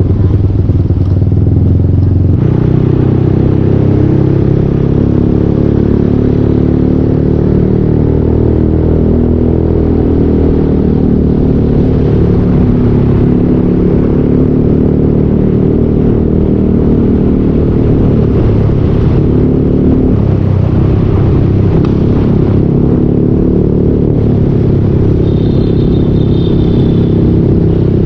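Yamaha Aerox 155 V2 scooter's single-cylinder engine running through a full Yoshimura aftermarket exhaust while riding, its pitch rising and falling with the throttle.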